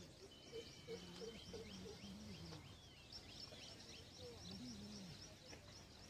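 Faint birdsong: several small birds chirping, with many short, quick high notes throughout.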